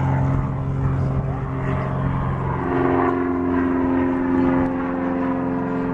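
Cessna floatplane's piston engine and propeller running steadily. About two and a half seconds in, its tone shifts higher and holds.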